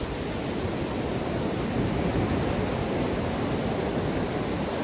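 Sea surf washing onto the shore: a steady rush of waves that swells slightly about two seconds in.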